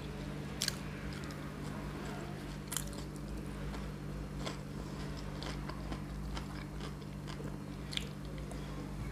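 Close-up mouth sounds of a person chewing and biting food, roast chicken and tomato-and-cucumber salad, with a few sharp wet clicks and smacks, over a steady low hum.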